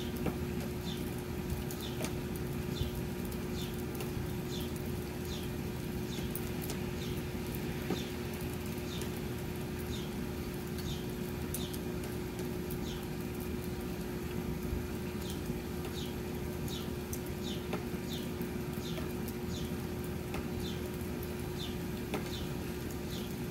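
Steady light rain falling, with a bird repeating a short chirp about once every 0.7 seconds over a faint steady hum.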